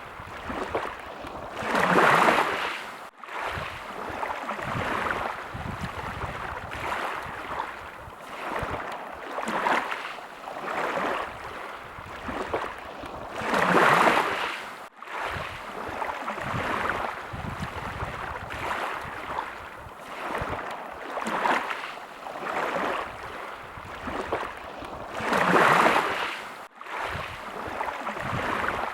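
Small sea waves lapping and washing in, in repeated swells every few seconds, with a stronger wash about every twelve seconds.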